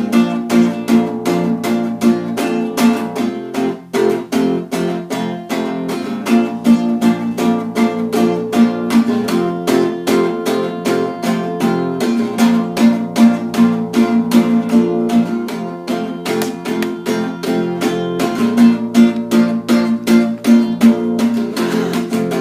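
Acoustic guitar strumming chords in a steady, quick rhythm.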